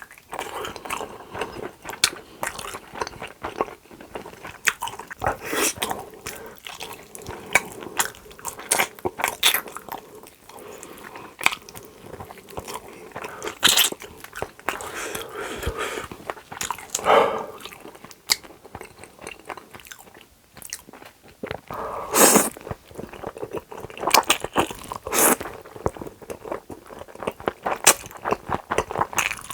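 Close-miked eating: a person chewing and biting food, with a steady run of short crunchy and wet mouth clicks and smacks, a few of them louder.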